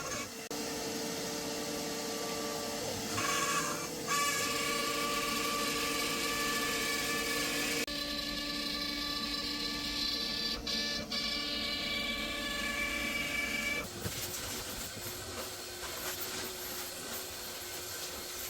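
DIY CNC router running, a steady motor whine with several pitches, typical of the spindle and stepper motors, changing abruptly a few times as one stretch of machining gives way to another.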